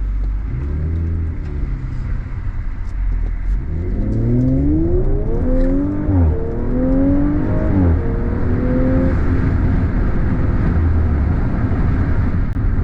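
Audi RS5's 2.9-litre twin-turbo V6, fitted with a carbon-fibre intake, accelerating hard: its pitch climbs and drops sharply at two upshifts, then settles into a steady cruise.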